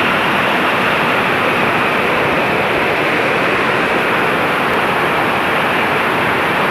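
Heavy rain pouring down in a loud, steady downpour.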